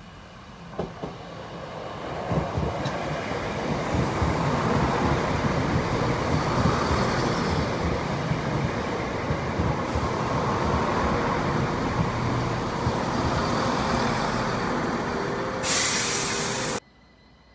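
Class 171 Turbostar diesel multiple unit running into the station, its engine and wheel rumble growing louder as it nears and passes close by. Near the end there is a short, loud burst of hiss, and then the sound cuts off suddenly.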